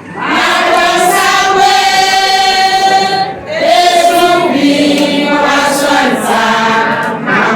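A group of voices singing together in long held notes, with a short break between phrases about three seconds in.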